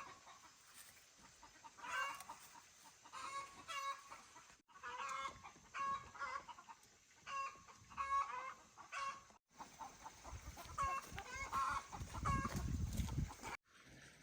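Chickens clucking, short pitched calls coming in clusters again and again. A low rumbling noise joins in over the last few seconds.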